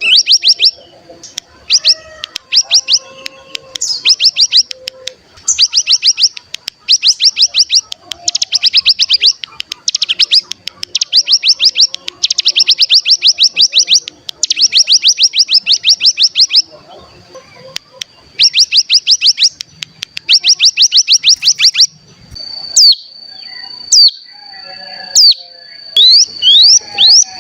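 Ciblek gunung songbird singing its trilled 'ngebren' song: repeated bursts of rapid, high, down-sweeping notes, about ten a second, over a thin steady high whistle. Near the end it changes to single sharp chips about a second apart that quicken.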